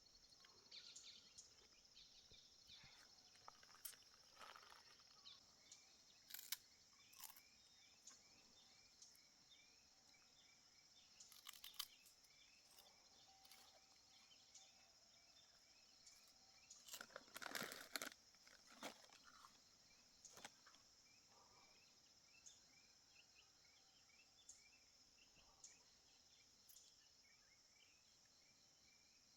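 Near silence in the open air: a faint steady high hiss with scattered soft clicks and small rustles, and a brief louder patch of rustling a little past halfway.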